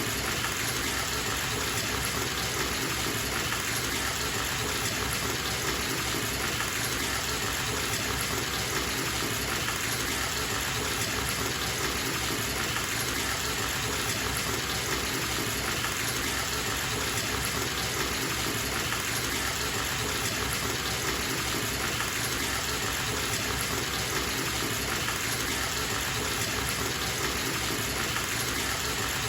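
Tap running steadily into a filling bathtub: a constant, even gush of water.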